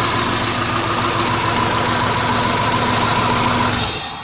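2000 Subaru Impreza Outback's 2.2-litre flat-four engine idling rough with a misfire, then stopping near the end.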